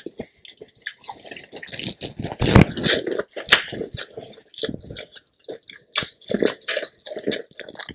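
Close-up mouth sounds of a person biting into and chewing corn on the cob, with irregular short clicks as she eats.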